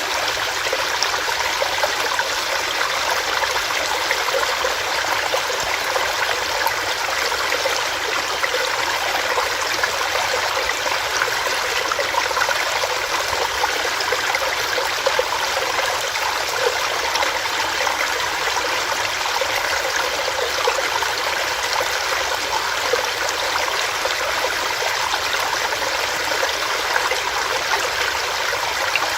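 Small rocky stream, water running and splashing over stones in a steady rush.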